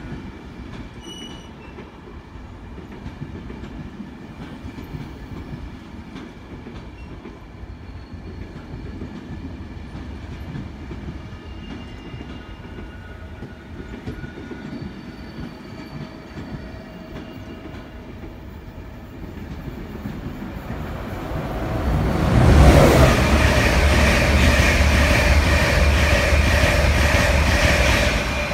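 Train of Mk4 passenger coaches rolling past on the rails, a steady rumble; about two-thirds of the way through it gets much louder, a strong low rumble with a steady whine over it, as the cab-ended vehicle at the tail of the train passes close.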